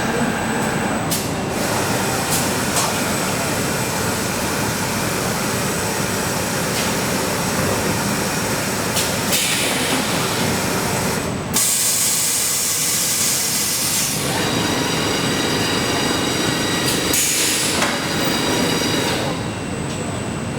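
Factory production machinery running with a steady mechanical din. A loud hiss cuts in about halfway through and lasts a couple of seconds, with shorter hisses before and after it.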